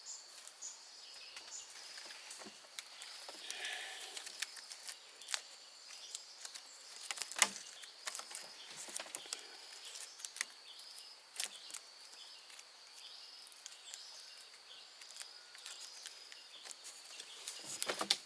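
Outdoor ambience: a steady, high-pitched insect drone, slightly pulsing, with scattered sharp clicks and knocks, the loudest about seven and a half seconds in.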